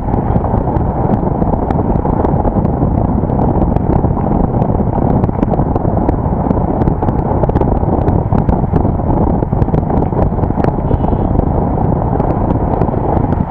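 Loud, steady wind rumble on an action camera's microphone riding on a moving vehicle, mixed with road noise, with scattered faint clicks.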